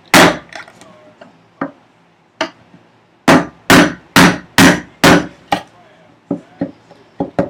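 Chisel being hammered, chopping out a housing dado in a wooden vise chop. A single heavy blow, a couple of light taps, then a run of six heavy strikes about two a second, and a few lighter taps near the end.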